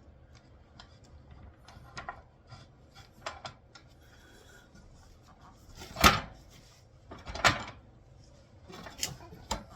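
Metal steering-shaft parts being handled and fitted by hand: scattered light clicks and rubs, with two louder knocks about six and seven and a half seconds in and two smaller ones near the end.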